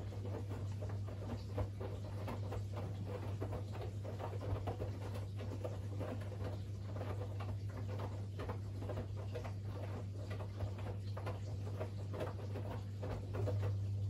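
Siemens iQ700 WG56B2090 front-loading washing machine turning its drum, with wet laundry and water tumbling and splashing in a dense, irregular patter over a steady low hum. The patter dies away near the end as the drum stops.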